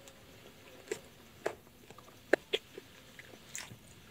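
Close-up mouth sounds of a person chewing spicy chicken feet: a few scattered wet smacks and clicks, the loudest two in quick succession a little past the middle.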